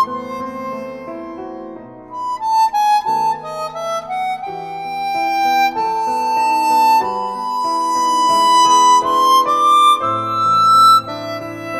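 Background music: a harmonica playing a melody of long held notes over changing chords.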